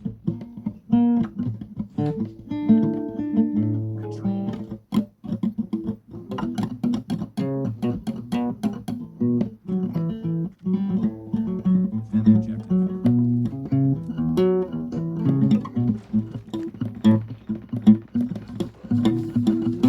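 Guitar music: a run of plucked notes with a lower bass line beneath.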